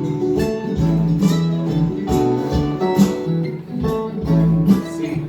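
Acoustic guitar strumming chords in a steady rhythm between sung verses of a live folk song.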